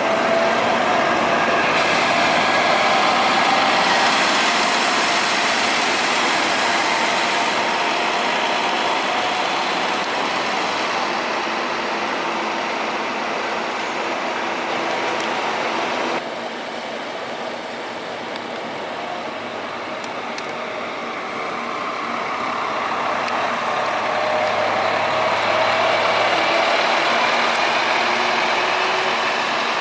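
Scania coach engine running as the bus moves. Its pitch falls over the first part and rises again toward the end, with an abrupt change about halfway through.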